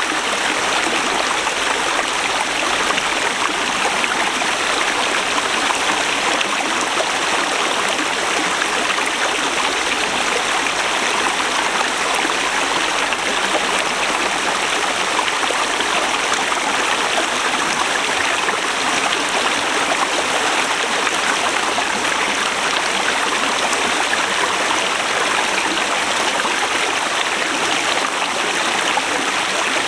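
Forest river flowing over rocks: a steady, unbroken rush of running water.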